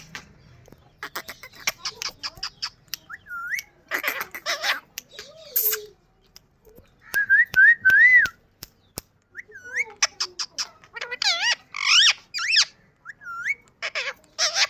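Indian ringneck parrot whistling short up-and-down notes, three in quick succession near the middle, mixed with rapid clicks and harsh chattering squawks.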